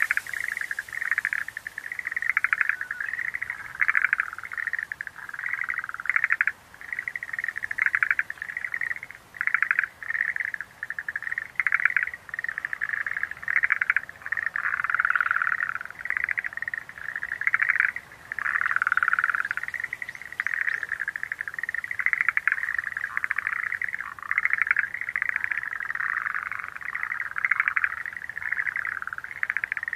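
Schlegel's green tree frogs calling in a chorus: rapid pulsed, rattling trills repeated one after another without pause, with several callers overlapping at slightly different pitches.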